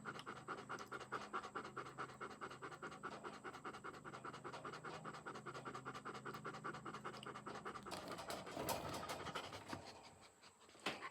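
A dog panting quickly and steadily, in a fast even rhythm that breaks off about eight seconds in.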